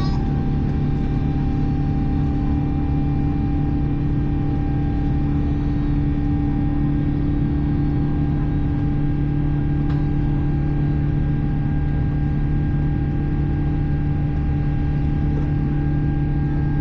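Steady cabin noise inside an Airbus A350 airliner: a constant low hum with a few fixed higher tones over it, unchanging throughout.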